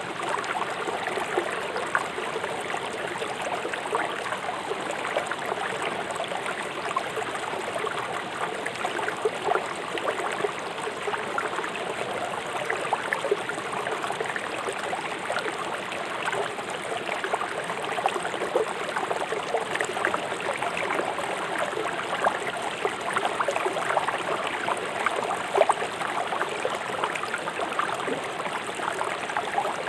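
River water flowing fast over rocks: a steady rush with many small splashes and gurgles.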